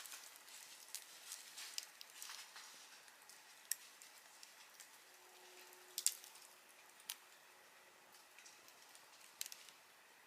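Wood campfire crackling: a soft hiss with scattered sharp pops and snaps, a few louder ones, the loudest about six seconds in.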